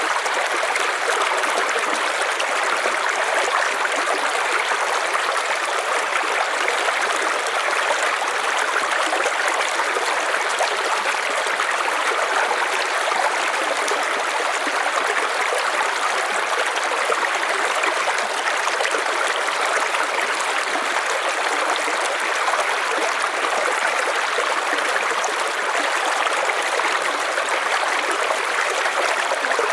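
River water running over stones: a steady rushing and babbling of flowing water, unchanging throughout.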